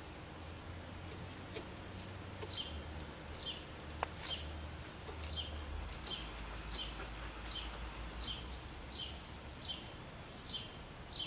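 A songbird calling: one high, short, downward-slurred note repeated over and over, a little more than once a second, starting about two seconds in.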